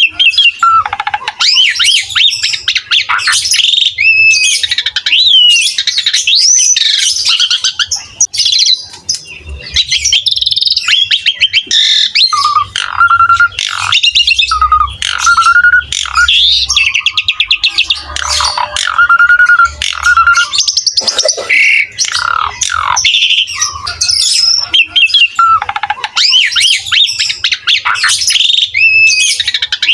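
Asian pied starling (jalak suren) in full, energetic song: a continuous, varied stream of whistles, rising and falling glides, quick chattering runs and harsh squawky notes.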